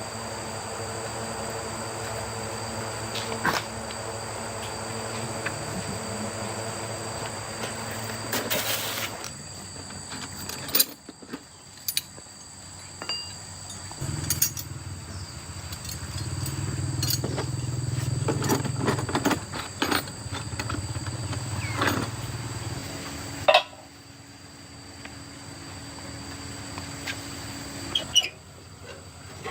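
A machine's motor hums steadily in stretches, stopping and starting again with a changing pitch, among scattered clicks and knocks of handling.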